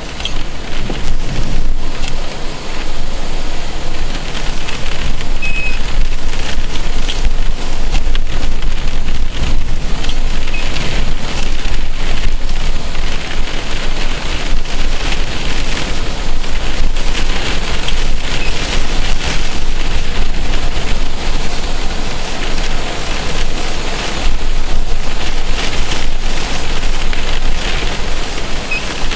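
Heavy rain falling, loud and steady, with a dense patter of drop impacts over a low rumble.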